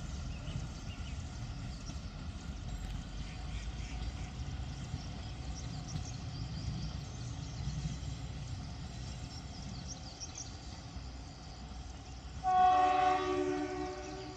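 Kalka–Shimla narrow-gauge train running with a steady low rumble, then one loud horn blast near the end that lasts over a second and fades away.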